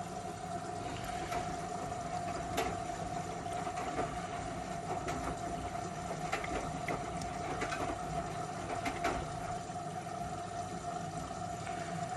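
Miele W1 front-loading washing machine running: a steady motor whine over a low hum, with water sloshing and short knocks from the tumbling drum every second or so.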